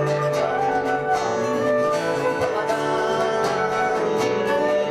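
Live acoustic music: an instrumental passage of plucked string instruments, guitar-like, over a long held note, with no singing.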